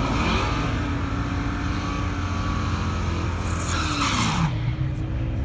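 A car engine revs up, holds steady high revs for about three seconds, then drops back, with a burst of hiss as the revs fall.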